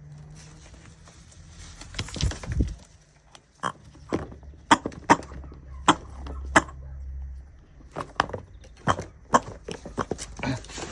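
Common raven giving a run of short, sharp calls, about a dozen, irregularly spaced and starting a few seconds in.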